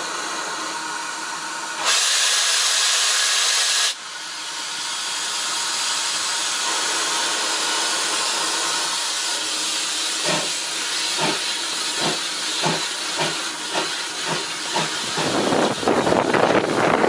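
Steam locomotive, a GWR 16xx 0-6-0 pannier tank, blowing off a loud two-second blast of steam that cuts off sharply, then hissing steadily. About ten seconds in it starts away, its exhaust chuffs coming quicker and louder as it gathers speed.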